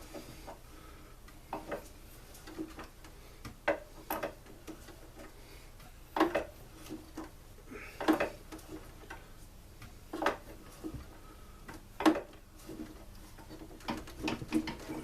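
Hand tools and small metal parts clinking and knocking during a blower tear-down, with scattered light clicks and a sharper knock about every two seconds in the second half.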